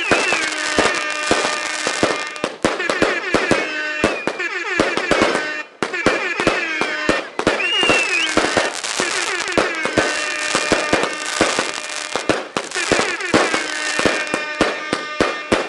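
Fireworks going off: a dense run of sharp bangs and crackles, with whistling tones that rise and then hold, recurring every few seconds.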